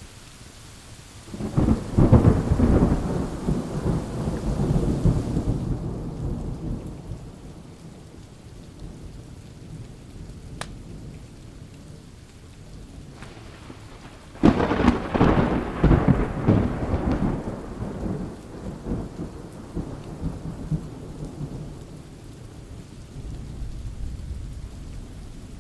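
Two thunderclaps, one about a second in and one just past halfway, each cracking loudly and then rumbling away over several seconds, over steady rain. A single sharp click sounds between them.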